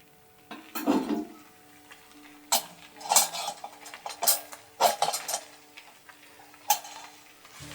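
A series of about six sharp clinks and clatters, as of hard objects being handled and set down, over a faint steady hum.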